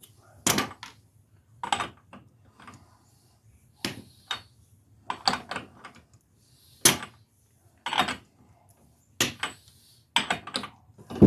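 A series of about ten sharp metal knocks and clanks, irregularly spaced roughly a second apart, from hand tools working on a car's front wheel hub.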